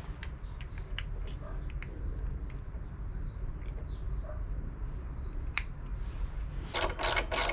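Hand tools working on a motorcycle's front brake during reassembly: scattered light metallic clicks and taps, then near the end a loud quick run of strokes about four a second, a ratchet spanner tightening the brake fasteners.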